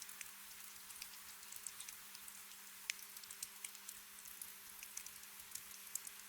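Soft rain ambience: a gentle steady hiss with many small scattered drips and ticks, over a faint steady low hum.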